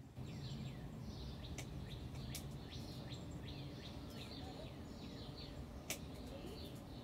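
Songbirds chirping busily, a fast run of quick down-slurred notes, over a steady low background rumble. A few sharp clicks, the loudest about six seconds in.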